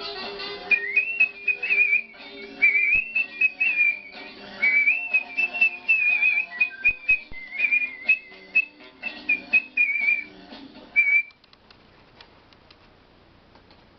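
A person whistling a melody with quick warbling trills and sliding notes, stopping about eleven seconds in.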